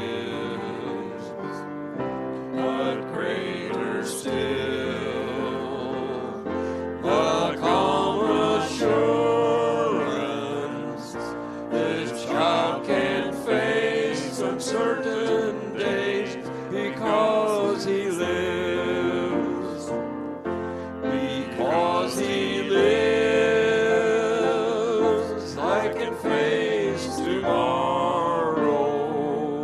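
Church worship music: singing with a wavering vibrato over a keyboard accompaniment whose held bass notes change every couple of seconds.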